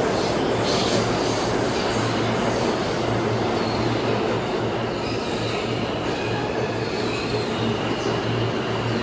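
New York City subway train moving along the rails in the station, a steady loud rumble with thin high-pitched squeals from the wheels on the rails coming and going.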